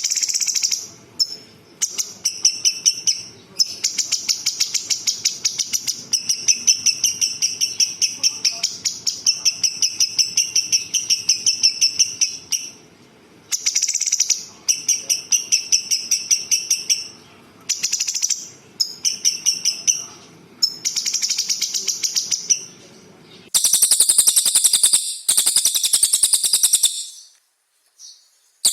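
Songbird song, rapid rattling trills in repeated phrases of one to three seconds with short pauses between them. Near the end comes a higher, denser trill of about three seconds.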